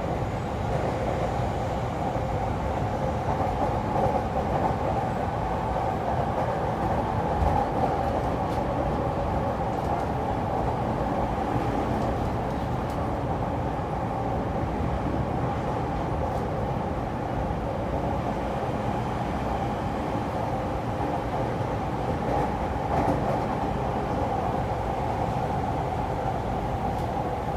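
E231 series electric commuter train running at a steady speed: an even rumble with a steady hum and a few faint clicks from the wheels over the rails.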